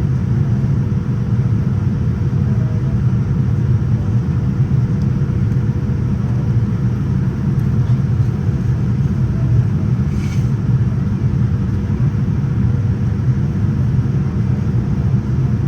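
Steady low rumble of engine and airflow noise inside the passenger cabin of a Boeing 787-9 airliner in flight, with a faint steady hum above it. A brief faint tick comes about ten seconds in.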